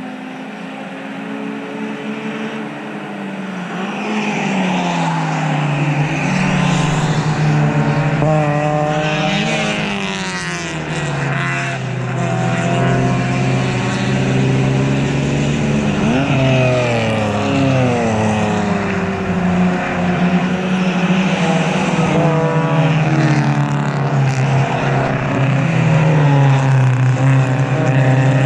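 Several race cars passing the corner one after another. Their engine notes overlap and glide up and down in pitch as each car goes by.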